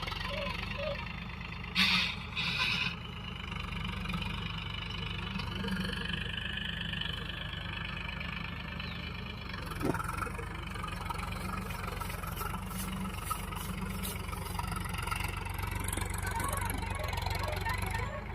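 Powertrac Euro 50 tractor's diesel engine running steadily with a low drone. About two seconds in there are two short, loud, noisy bursts, and near ten seconds a single sharp knock.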